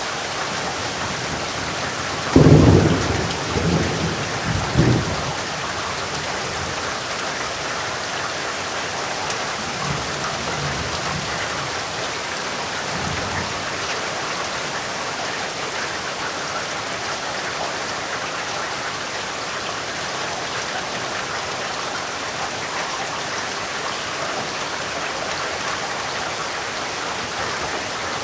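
Steady heavy rain hissing, with a sudden close thunderclap about two and a half seconds in that rolls on in a few rumbles for a couple of seconds, and fainter distant thunder rumbling a few seconds later.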